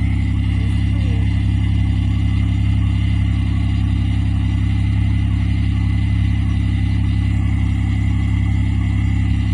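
1998 Buick LeSabre's 3.8-litre V6 engine running steadily, heard at its exhaust.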